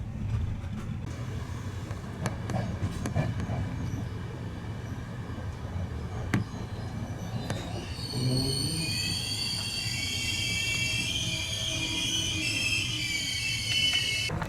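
Passenger train running with a steady low rumble and occasional clicks. About eight seconds in, a high-pitched wheel squeal of several shrill tones sets in and continues.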